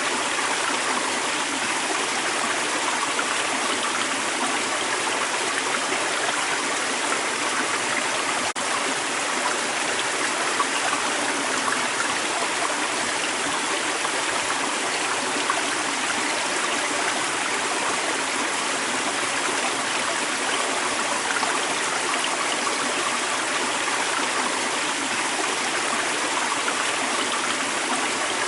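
Creek water running steadily, an even, continuous rush.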